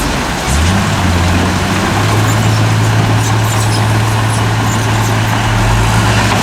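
Heavy diesel engine of earthmoving machinery running, with a dense noisy rumble over it. The engine note shifts in pitch about half a second in and again about two seconds in.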